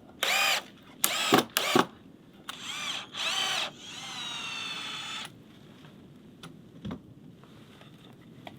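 Power drill whirring in five short trigger bursts, its pitch rising and falling with each one, then running steadily for about a second. A single short knock follows a little later.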